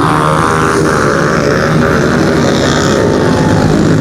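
A field of 110cc pit bike engines revving hard together as they launch off the start, many overlapping buzzing engine notes.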